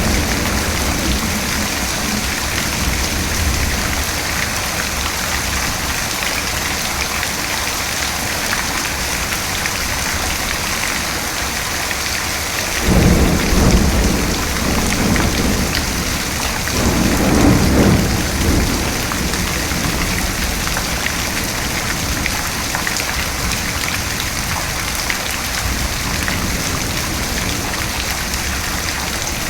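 Steady heavy rain falling, with thunder rumbling twice in the middle stretch, each roll lasting a couple of seconds.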